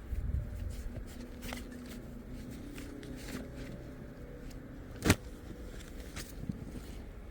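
Picnic items being handled and unpacked on snow: scattered rustles and small clicks, with one sharp knock about five seconds in. Wind rumbles on the microphone in the first second, over a faint steady hum.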